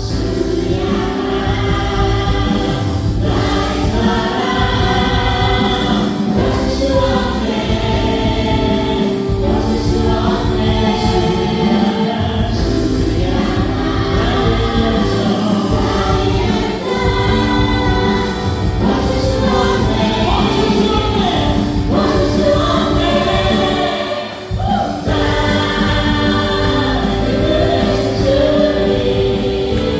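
Live worship band playing a gospel praise song, with several voices singing together over keyboards, bass and drums. The music dips briefly about 24 seconds in.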